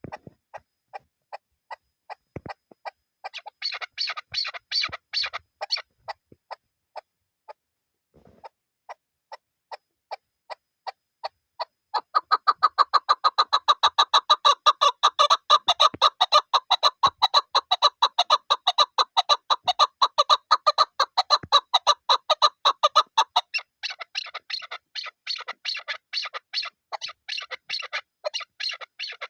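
Chukar partridge (chakor) calling in a long series of short clucking notes. About twelve seconds in, the notes turn into a fast, loud run lasting roughly ten seconds, then carry on somewhat quieter.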